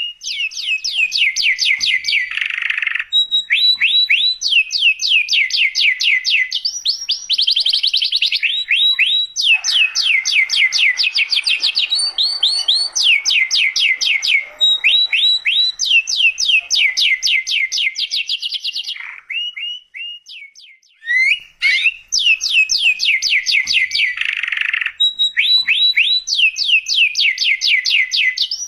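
Domestic canary in full song, singing continuously in long rapid trills of repeated falling high notes, with a brief pause about twenty seconds in.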